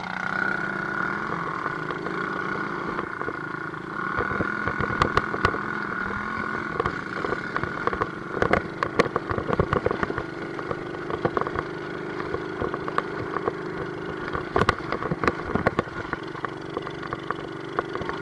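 50cc dirt bike engine running steadily under throttle, its pitch shifting, with many sharp knocks and rattles through the middle as the bike bounces over rough ground.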